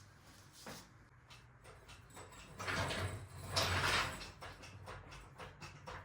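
Engine and transmission shifting on a hoist: two scraping, rumbling stretches of metal rubbing and sliding, about two and a half and three and a half seconds in, among scattered light clicks and knocks.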